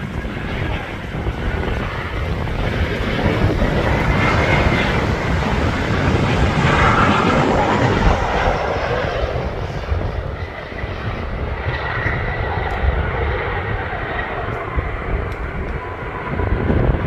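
Jet airliner's engines swelling to a peak about seven seconds in, then easing off as the aircraft passes, with a faint whine in the noise. Strong wind buffets the microphone throughout.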